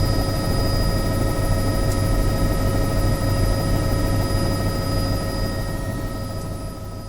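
Helicopter running steadily, a turbine whine over the rotor and engine rumble, fading away over the last couple of seconds.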